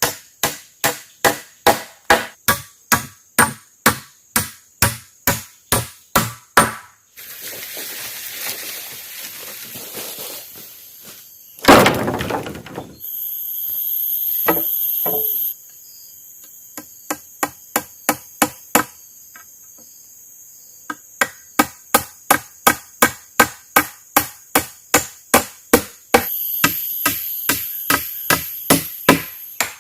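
Wood being chopped with a blade in quick, even blows, about three a second, in two long runs with a few scattered blows between. Between the runs there is a stretch of even hiss and one loud crash, and a high, steady insect drone comes in twice.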